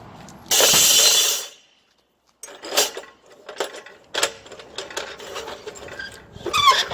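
A loud rushing hiss for about a second, then, after a cut, a run of metal clicks and clanks from metal parts being handled, with a short squeal near the end.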